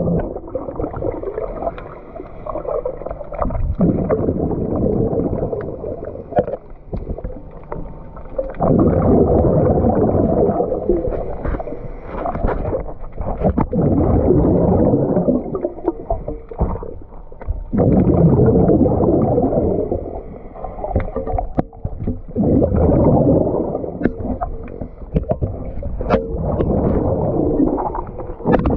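Water gurgling and sloshing, heavily muffled, in surges that swell and fade every few seconds.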